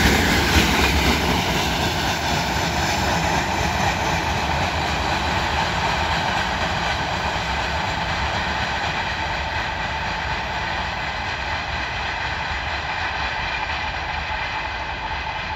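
Freight train tank wagons rolling on the rails as the end of the train passes and draws away, with a few wheel knocks over rail joints at first, then a steady rumble that slowly fades.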